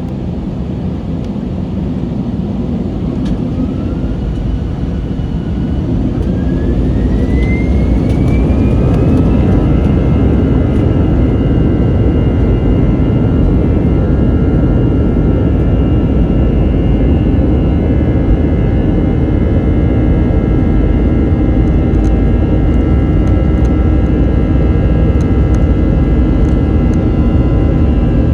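Airbus A321 jet engines spooling up to takeoff power, heard from inside the cabin. A rising whine builds over the first several seconds and settles into steady high tones over a loud, rising rumble.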